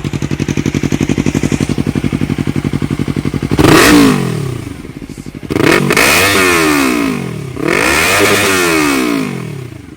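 Yamaha YZF-R3's parallel-twin engine through an Akrapovic Racing GP full exhaust, idling with an even pulse, then revved three times: a short blip about three and a half seconds in and two longer revs, each falling back toward idle.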